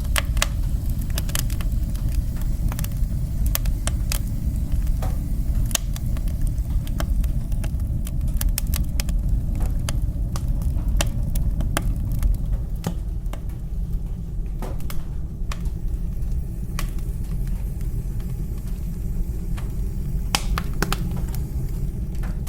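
Wood fire burning in a fireplace: a steady low rumble from the flames, with irregular sharp crackles and pops.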